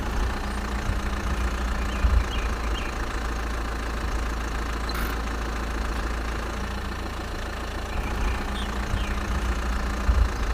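Small engine running steadily at idle with a low rumble, with a brief knock about two seconds in and another near the end.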